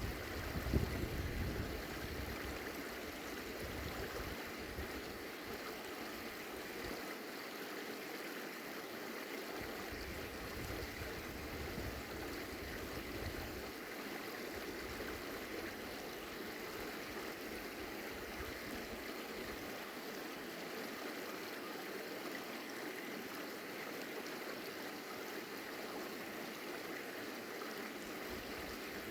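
A stream running, a steady rush of water. Wind buffets the microphone for roughly the first half, then only now and again.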